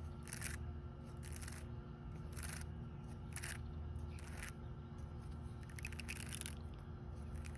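Fishing line being tugged out of a tangled baitcasting reel spool while clearing a backlash: short scraping strokes about once a second, then a quicker flurry of them about six seconds in.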